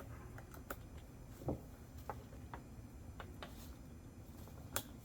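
Quiet room with a few faint, scattered clicks, a soft knock about one and a half seconds in, and a sharper click near the end.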